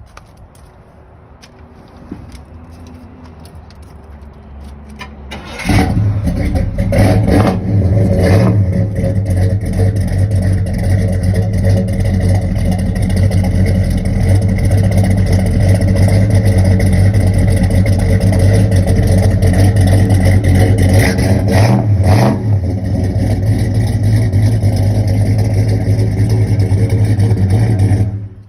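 The 396 big-block V8 of a 1970 Chevelle SS starting up: it fires about six seconds in and is blipped a few times. It then runs loud and steady, with another quick rev a little past the middle, and shuts off abruptly near the end.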